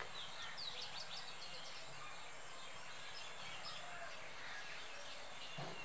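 Birds chirping in the background, many short quick calls, over a steady high hiss.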